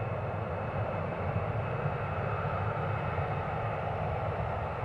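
Jet aircraft engines running with a steady, low rumble.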